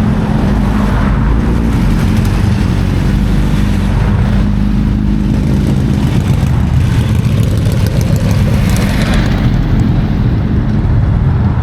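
Motorcycle engines running close by: a loud, steady low rumble that holds throughout.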